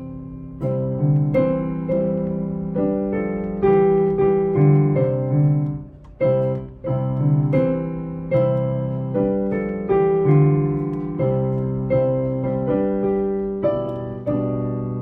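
A hymn played on the piano in full chords, each chord struck and left to ring and fade; the playing dips briefly about six seconds in before going on.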